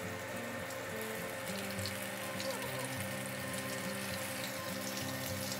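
Seaweed-wrapped tofu sizzling in hot oil in a frying pan: a steady hiss with fine crackling.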